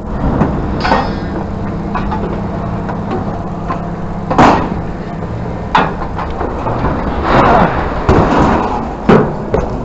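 Scrap metal being handled, with three loud clanks or thuds and a stretch of scraping and rattling. A vehicle engine idles steadily underneath.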